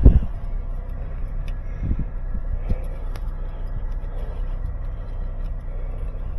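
A vehicle running with a steady low rumble, with a loud knock right at the start.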